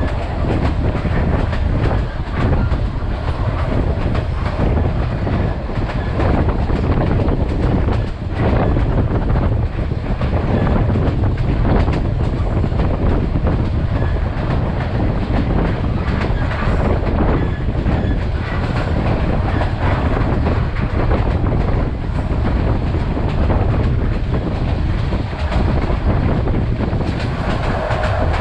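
Vietnam Railways passenger train running along the track: a steady low rumble with the wheels clacking irregularly over rail joints.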